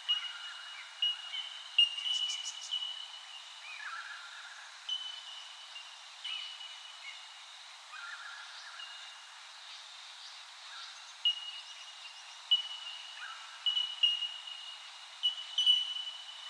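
Birds calling outdoors: short high notes repeated at irregular intervals, with lower, drawn-out notes now and then over a light background hiss.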